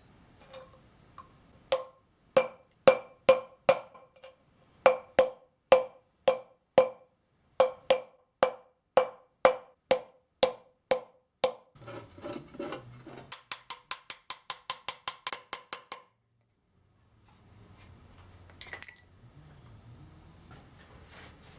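Hammer driving new bearings into a motorcycle wheel hub: ringing metal strikes about two a second, then a quicker run of lighter taps that stops about 16 seconds in. A single clink follows a few seconds later.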